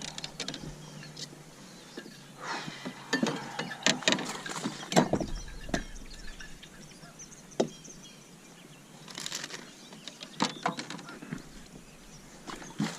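Geese honking in scattered bouts of calls, with a few sharp knocks in between.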